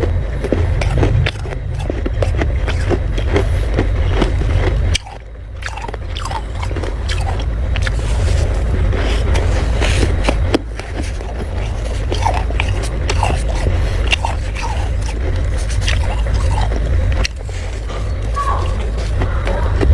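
Crunchy humidifier frost being bitten and chewed close to the microphone: dense crackling crunches over a low rumble. The sound drops and shifts abruptly three times, as if edited.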